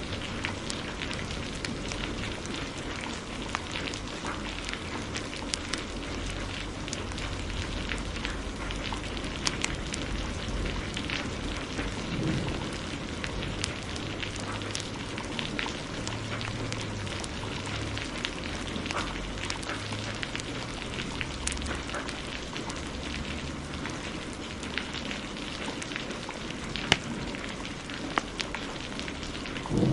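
Wood fire crackling in a fireplace, with many small pops and one louder pop near the end, over a steady hiss of heavy rain.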